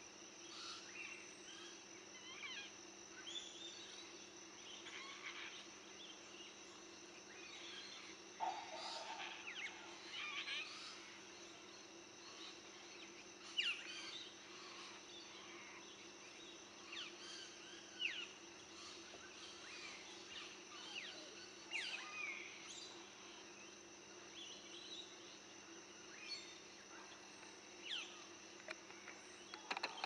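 Faint outdoor ambience of wild birds: scattered short, quickly falling chirps and calls, with a brief lower call about eight seconds in, over a steady high-pitched whine and a low steady hum.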